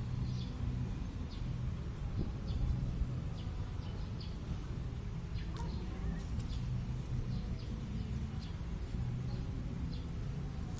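Small birds chirping: short, high chirps scattered irregularly, over a steady low rumble.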